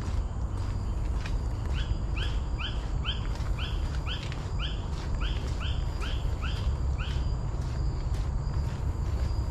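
A bird calling a run of about a dozen short, identical notes, two to three a second, starting about two seconds in and stopping about two seconds before the end. Underneath are a steady low rumble and the soft steps of someone walking on a trail.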